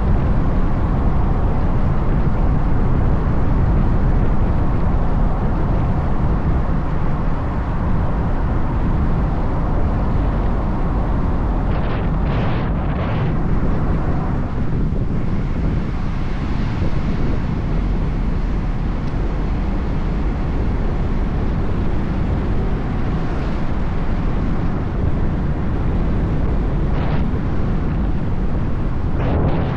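Steady wind rush on the microphone with a motorcycle running underneath while riding at speed, likely a Bajaj Dominar 400 single-cylinder; a few brief swells about twelve seconds in and near the end.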